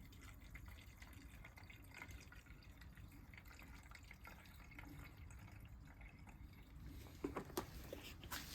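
Faint trickle of two-stroke pre-mix fuel being poured into the hedge trimmer's fuel tank, with a few light clicks near the end.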